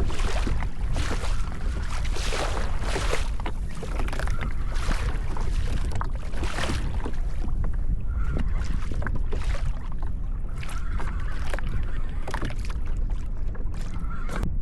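Water splashing and sloshing against a fishing kayak's hull in repeated surges, about one a second at first and sparser later, over a steady low rumble of wind on the microphone.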